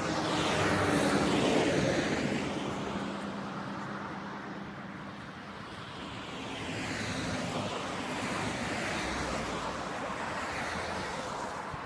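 A vehicle passes by, swelling and falling in pitch as it goes, then fades; a second vehicle approaches and passes about seven to nine seconds in.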